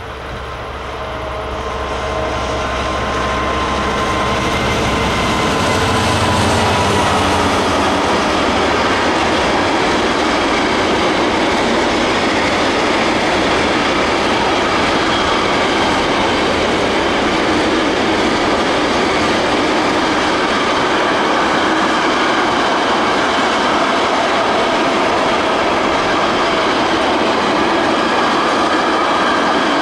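Class 66 diesel locomotive passing at the head of an intermodal container train: its engine note grows louder over the first few seconds as it comes by. Then the long string of container wagons rolls past with steady, continuous wheel-on-rail noise.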